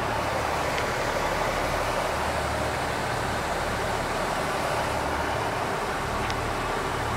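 Stopped KiHa 85 diesel express train idling: a steady low engine hum under a constant rushing noise.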